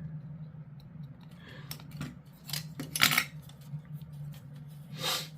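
Plastic model kit parts being worked at the bench: a few sharp clicks and snips, with single ones at about two and a half seconds and near the end and a tighter cluster around three seconds, over a steady low hum.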